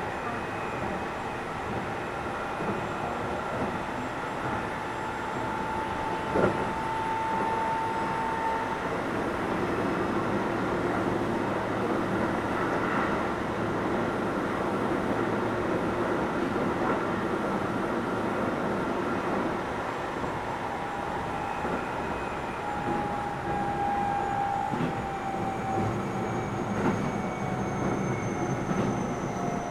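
Keio 7000 series electric train running, with a steady rumble of wheels on rail and a motor whine that rises slightly through the first several seconds. There is a single sharp knock about six and a half seconds in, and near the end the whine falls in pitch among a few wheel clicks.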